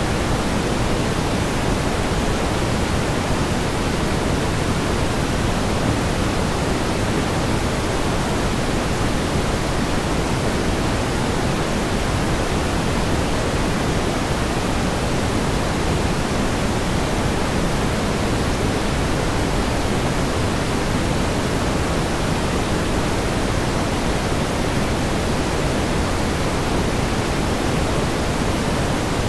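Steady pink noise: an even, unchanging hiss, heavier in the low end and softer toward the top.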